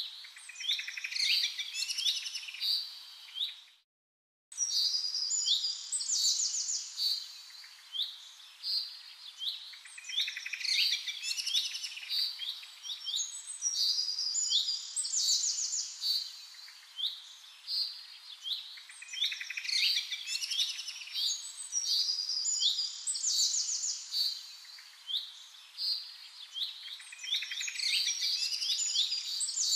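Birdsong: chirps, trills and quick whistled calls, with the same run of calls recurring every four to five seconds. The sound cuts out completely for about half a second around four seconds in.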